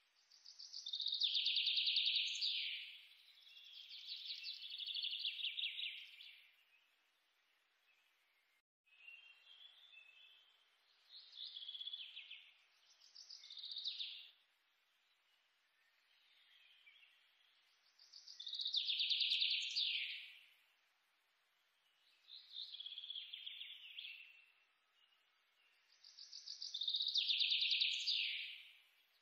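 Birdsong: bright trilled chirping phrases, each a second or two long, coming in a regular repeating cycle, like a looped nature-sound track.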